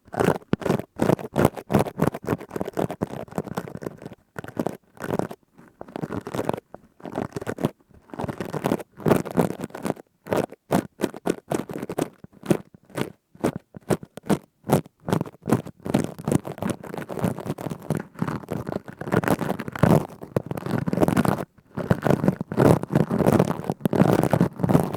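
Plastic scourer rubbed and squeezed close to the microphone: a dense, irregular run of crisp, crackly scratching strokes with short pauses between them.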